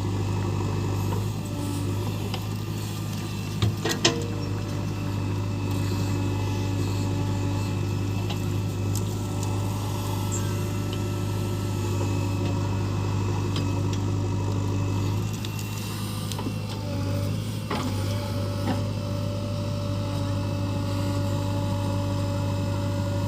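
JCB 3DX backhoe loader's diesel engine running steadily with a constant low hum, with a couple of sharp metallic knocks about four seconds in and another near the end of the second quarter.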